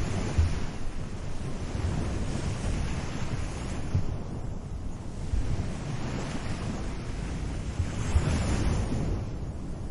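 Small waves breaking and washing up a beach, the surf hiss swelling and fading in slow surges, strongest about eight seconds in. A low, uneven rumble of wind buffeting the microphone runs under it.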